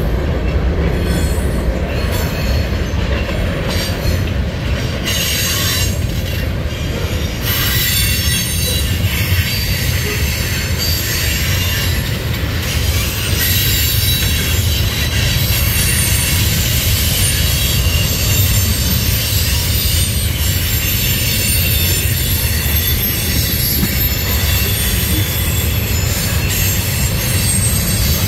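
Mixed freight cars of a BNSF manifest train rolling steadily across a steel girder bridge: a continuous loud rumble of wheels on rail. From about seven seconds in, a high-pitched wheel squeal joins in.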